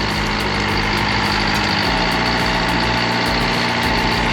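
Vintage road grader's diesel engine running at idle, revived after decades sitting dormant. The engine note steps down slightly about two seconds in.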